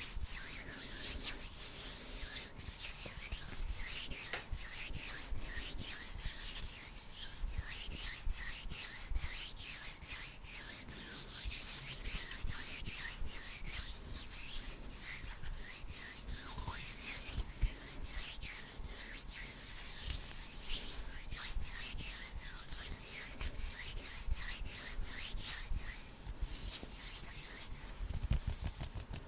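Bare hands rubbing and brushing together close to the microphone: a continuous dry swishing made of many quick strokes.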